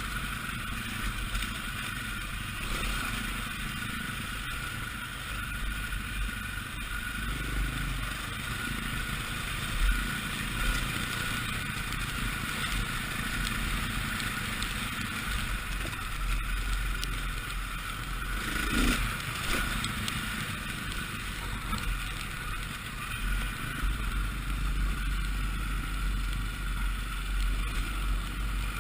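Dirt bike engine running while riding along a trail, with wind buffeting the microphone.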